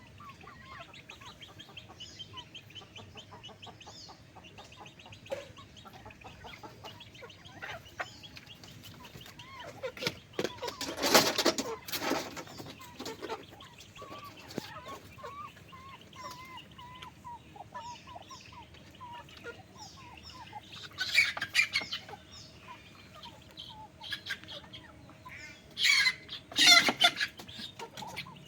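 A flock of chickens clucking and calling, with many small high calls throughout and a run of low, wavering clucks in the middle. Three louder, noisy outbursts break in: one about a third of the way through, one about three-quarters through, and one near the end.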